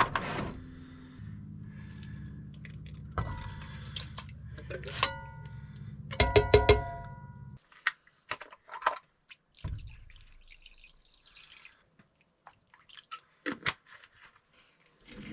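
Cooking preparation sounds: liquid pouring and dripping into a pot, scattered small clicks and handling noises, and a few ringing clinks about five and six and a half seconds in. A steady low hum runs underneath and stops about halfway through.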